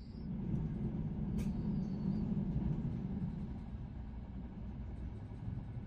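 Cabin noise inside a Trenitalia ETR 500 high-speed train in motion: a steady low rumble of the train running on the track, swelling slightly and then growing a little fainter, with a single sharp click about a second and a half in.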